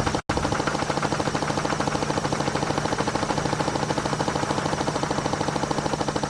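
Helicopter rotor chopping in a rapid, even beat over a steady low hum, with a split-second break just after the start.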